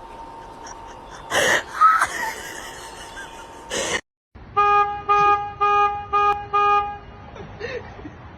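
A horn tooting about six short times in quick succession, each toot a steady, buzzy note. Before it come a few sudden noisy bursts.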